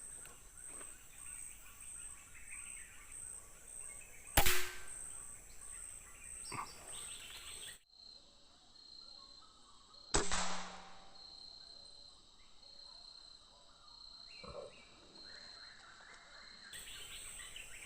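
Two air-rifle shots, each a single sharp crack, about six seconds apart, over a steady insect buzz and occasional bird chirps.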